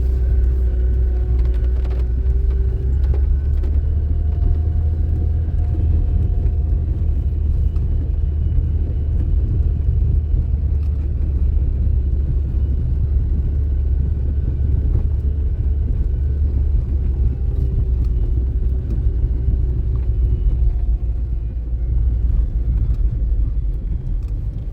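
A car driving, its engine and road noise making a steady low rumble, with a faint engine tone that drifts slightly up and down.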